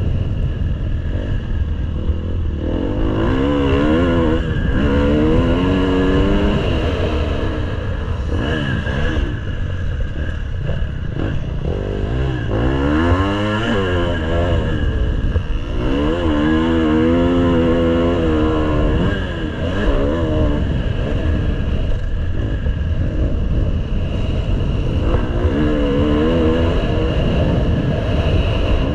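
Motocross bike engine running hard, its pitch rising and falling over and over as the throttle is opened and closed, over a constant low rumble.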